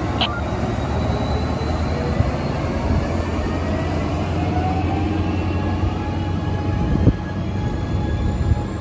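COASTER commuter train's Siemens Charger diesel locomotive running as the train rolls away, a steady low engine drone with faint, slowly gliding whines from the wheels. One sharp click just after the start, and a thump about seven seconds in.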